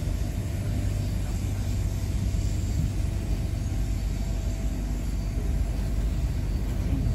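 Steady rumble of an electric passenger train running at speed, heard from inside the carriage: wheels on the rails and the car's running noise, with a faint steady hum over it.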